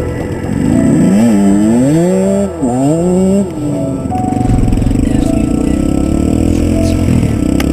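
Small dirt bike engine revving up and down about three times, then running on steadily, with background music.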